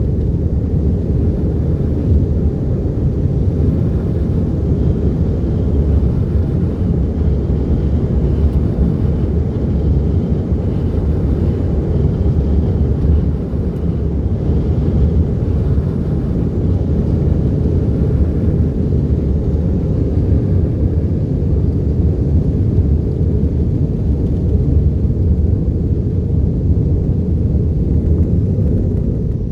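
Continuous low rumble of an all-cloth tunnel car wash running, with machinery and water or air noise and no breaks.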